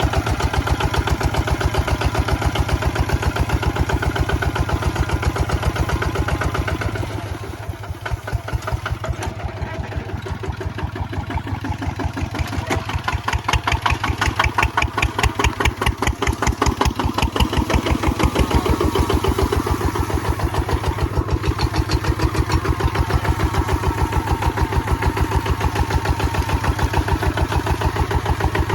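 Kubota ZT155 walking tractor's single-cylinder diesel engine running with an even, rapid firing beat. It drops quieter about seven seconds in, then comes back stronger around the middle.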